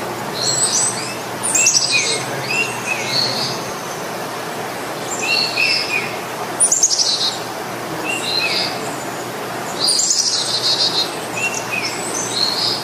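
Birds chirping and trilling in short repeated phrases, with a rapid trill every few seconds, over a steady background hiss.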